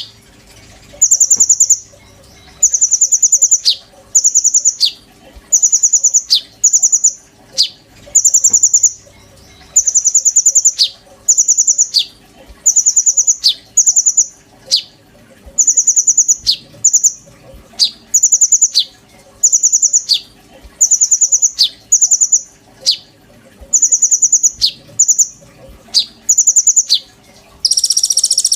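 Konin bird singing nonstop (gacor), repeating the same short phrase about once a second: a fast high rattling trill followed by a quick downward-slurred note. Near the end a louder, harsher buzzing call starts.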